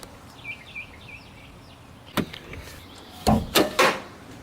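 Handling noises: a single click a little over two seconds in, then three quick knocks close together about a second later. Faint high chirps sound in the first second.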